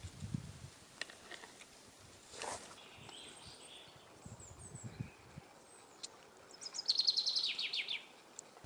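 A small songbird sings a quick run of notes that fall in pitch, about seven seconds in, with fainter high chirps earlier and a few soft low knocks.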